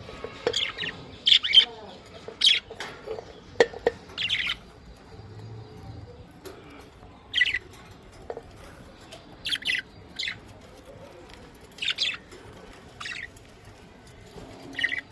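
Budgerigars chirping: short, sharp high calls coming irregularly, with a brief lull about a third of the way in.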